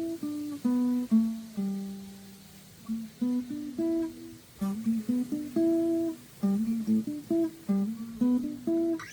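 Steel-string acoustic guitar played fingerstyle: a blues lick of single plucked notes mixed with some two-note double-stops, moving up and down a scale pattern at an unhurried pace.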